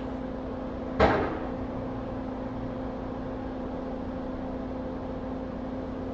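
A single sharp knock or clack about a second in, like a tool or object set down on the workbench, over a steady electrical hum.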